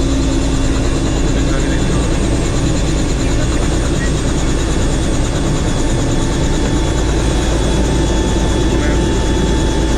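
Helicopter running steadily in flight: the turbine engine and rotor keep up a loud, even noise with a few steady whining tones above it.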